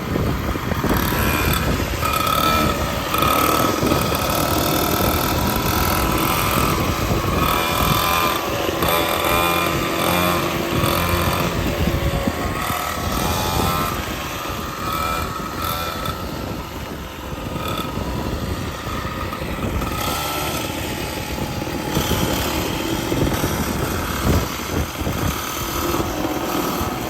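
Kawasaki KMX 125 two-stroke dirt bike engine running under throttle while being ridden, its pitch rising and falling with the revs.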